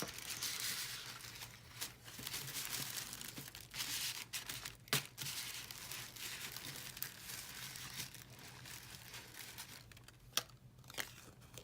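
Tissue paper and packaging rustling and crinkling as items are handled and unwrapped, with a few sharp taps along the way.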